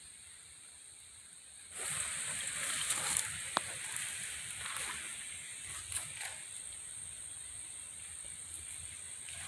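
Footsteps crunching and rustling over rough ground, starting about two seconds in, with a few sharp clicks among them.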